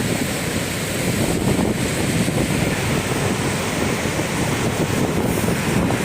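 Steady roar of Niagara Falls' water, with wind buffeting the microphone.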